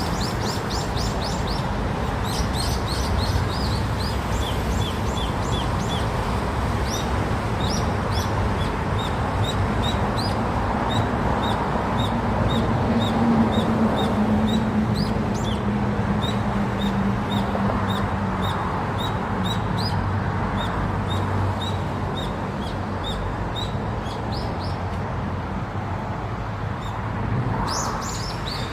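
Many small birds chirping: short, high chirps repeated over and over. Beneath them is a steady background rumble, with a low hum that swells about midway.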